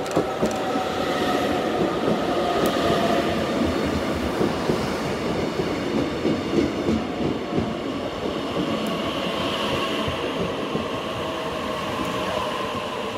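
Korail O-train passenger train pulling in along a station platform and passing close by: a loud rumble of wheels on rail that builds over the first couple of seconds, with scattered clacks and a thin steady squeal as it slows on arrival.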